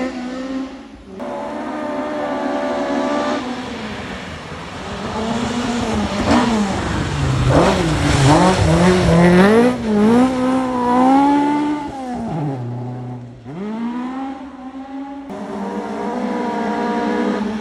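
Rally cars on a forest special stage, one after another: engines at full throttle, the note climbing and dropping through gear changes as a car passes close in the middle and then falls away. The sound changes abruptly about a second in and again near the end as one car gives way to the next.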